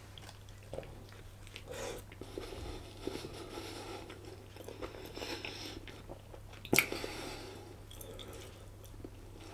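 Close-up chewing of a chilli dog, a soft bread roll with a frankfurter-style sausage, with small wet mouth sounds; one sharper click comes about seven seconds in.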